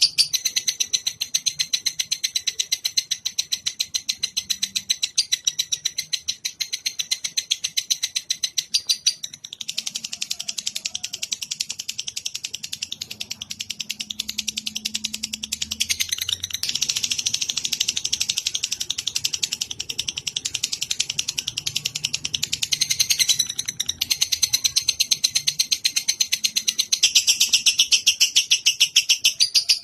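Lovebird song: a long, very rapid chattering trill, high-pitched and unbroken, shifting its pattern every few seconds.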